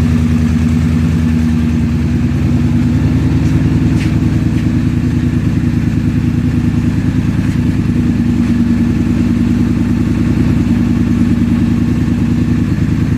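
2012 Polaris Sportsman 850 XP Touring ATV's parallel-twin engine idling steadily through an aftermarket Hotseat exhaust.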